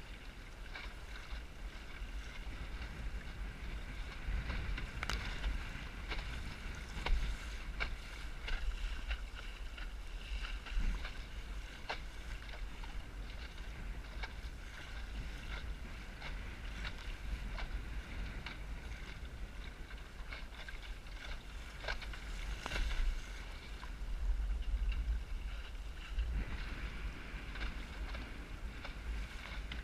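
Wind on the microphone aboard a small Snark sailboat sailing in high wind: a steady low rumble and hiss, with scattered sharp ticks and knocks.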